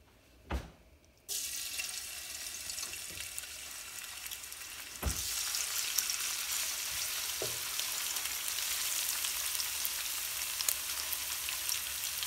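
Crushed ginger and garlic frying in hot oil in a nonstick pan while being stirred with a spatula. The sizzle starts suddenly about a second in and gets louder about five seconds in, with a few dull knocks.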